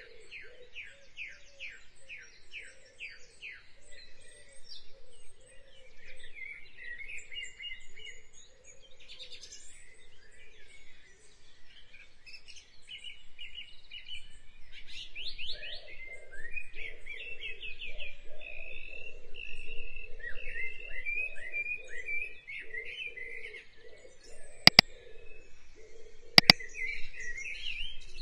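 Songbirds chirping and trilling, with a run of quick repeated downward notes in the first few seconds. Two sharp clicks about a second and a half apart near the end.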